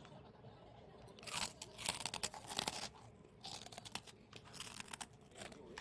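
Crunchy snack being chewed: loud crunches start about a second in and come in two clusters.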